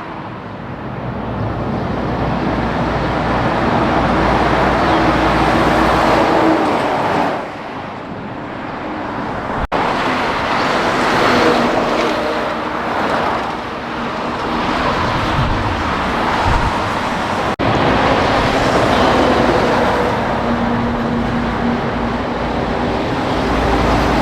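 Heavy highway traffic with trucks passing: continuous engine and tyre noise that swells and eases as each vehicle goes by.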